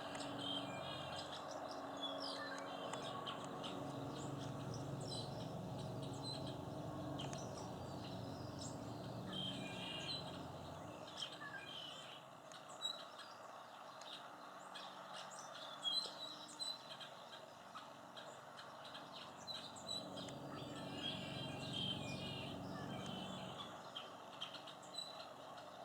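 Small songbirds, finches and sparrows, chirping and twittering, many short calls overlapping. A low background rumble comes and goes beneath them, fading about 11 seconds in and returning for a few seconds later.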